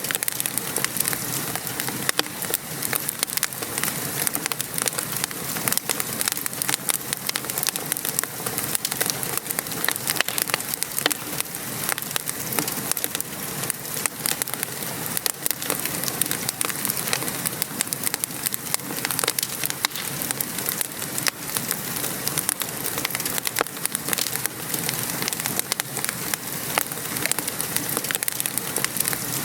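Steady patter of rain mixed with the crackle and snap of a wood fire in a fireplace, dense small pops throughout.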